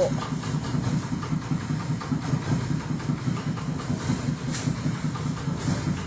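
Septic siphoning truck's engine and vacuum pump running steadily with a fluttering low rumble while the hose sucks from the septic tank.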